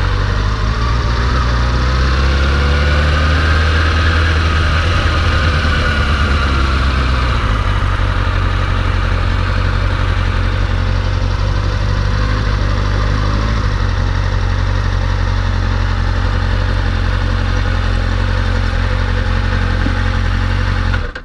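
Motorcycle engine running while riding at low speed, its pitch rising and falling in the first few seconds, then settling into a steady low drone. The sound cuts off suddenly near the end.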